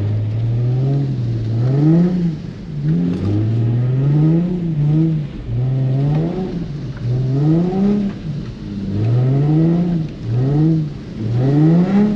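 Nissan 350Z's 3.5-litre V6 revving hard over and over, its pitch climbing and dropping about seven times as the throttle is worked to keep the car sliding on slick wet pavement.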